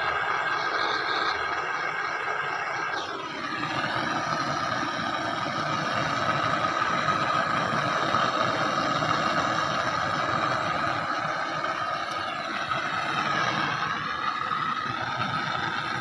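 Gas blowtorch burning steadily, heating the seized bolts of a washing-machine drum spider to free them; the sound dips and shifts briefly about three seconds in and again near twelve seconds.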